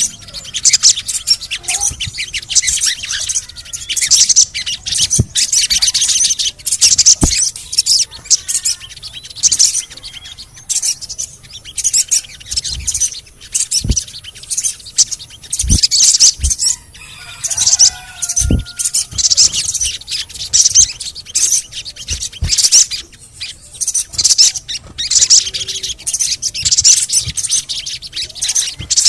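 Sogon sunbirds singing: fast, high-pitched chirping and twittering runs that come in bursts with short breaks, and a few lower whistled notes. Now and then there is a soft low knock.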